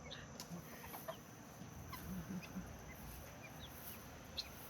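Young guinea fowl and their mother hen, with scattered faint short high chirps and a few soft low clucks.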